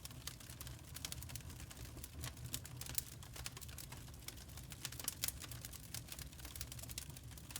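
Wood fire crackling: dense, irregular sharp snaps and pops over a steady low rumble.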